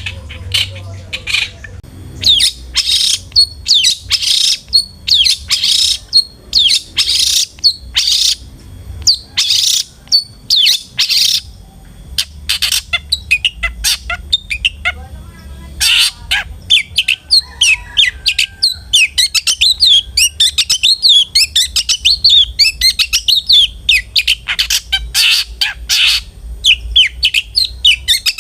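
Long-tailed shrike (cendet) singing: loud, harsh, rasping call notes repeated in quick series, turning about halfway through into a fast run of high, chattering twitter.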